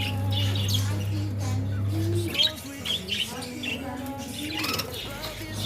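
Pet budgerigars chirping and twittering in short repeated calls, over a steady low hum that drops out a little over two seconds in and comes back near the end.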